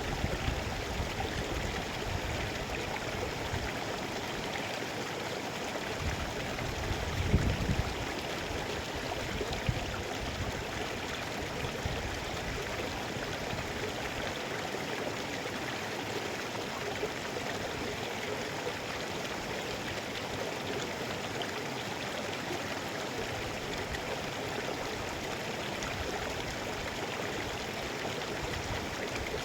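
Mountain stream water rushing and splashing over rocks in a steady, even flow, with a brief low rumble about seven seconds in.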